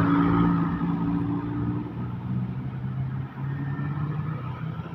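Engine of a heavy road vehicle, a truck or bus, running as it passes by with a steady note that is loudest in the first second and eases off after about three seconds.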